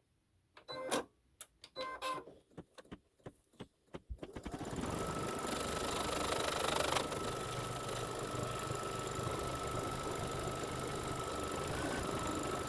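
A few scattered clicks, then about four seconds in a computerized embroidery machine starts and runs steadily, stitching the placement line for the background fabric.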